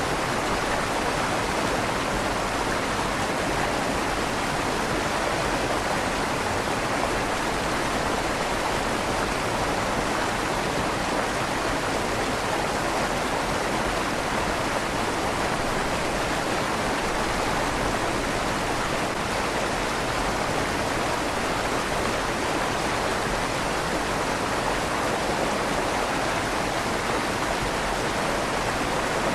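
River water flowing steadily under a stone bridge, a constant rushing with a slight echo off the stone tunnel walls.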